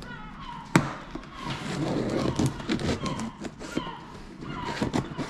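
A parcel being unpacked by hand: packaging rustling and crackling, with clicks and one sharp knock about a second in. A short falling chirp repeats in the background several times.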